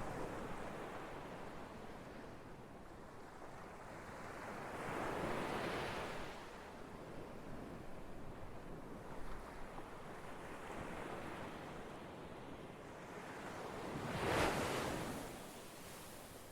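Ocean waves breaking and washing on a shore, a steady rush of surf that swells twice, most strongly near the end.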